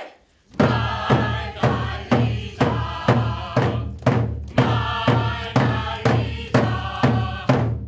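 Rhythmic music of evenly spaced drum beats, about two a second, with a group chanting along between the beats. It starts about half a second in and stops just before the end.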